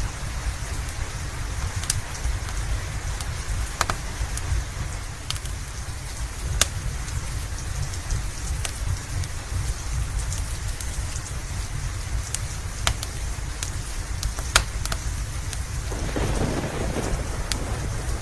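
Steady rain over a continuous low rumble of thunder, with scattered sharp pops of a crackling wood fire. The thunder swells near the end.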